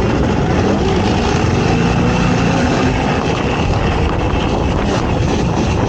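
ATV engine running hard under race load, its pitch rising and falling with the throttle, under a dense, steady rush of noise.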